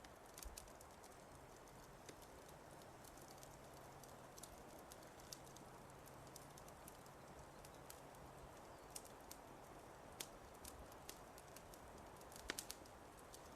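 Faint crackling fire: scattered sharp pops and snaps over a soft steady hiss, with a quick burst of louder pops near the end.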